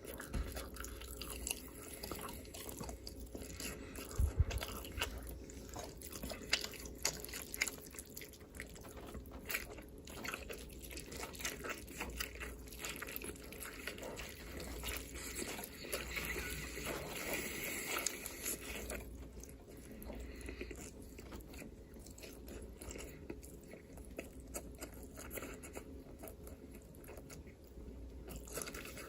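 Close-miked eating sounds: repeated biting and crunchy chewing of food, with many small sharp crackles, denser for a few seconds past the middle.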